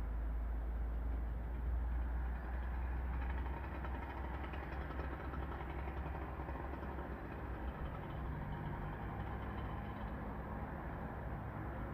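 Steady low rumble of the erupting Cumbre Vieja volcano, with no clear beat. The deepest part eases off about three seconds in, leaving a more even roar.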